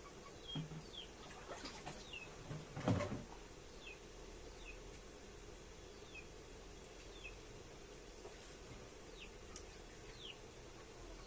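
Small birds chirping in the background: short, high, downward-sliding notes every half second to second. A few knocks and clatters come in the first three seconds, the loudest about three seconds in.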